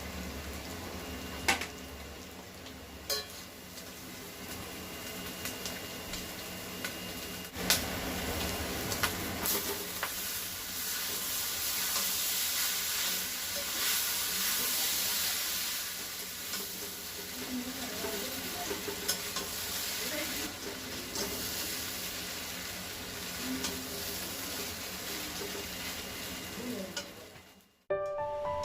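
Food sizzling as it fries in a pan while being stirred, with a few sharp clicks of a utensil against the pan. The sizzle is loudest in the middle and fades out near the end.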